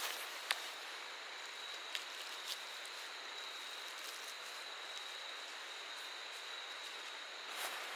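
Steady outdoor hiss with a thin high whine held throughout, and a few small sharp clicks in the first few seconds.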